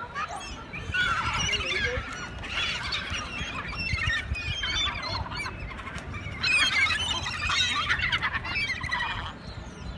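A flock of gulls calling, many harsh cries overlapping in bouts, the busiest and loudest stretch coming in the second half.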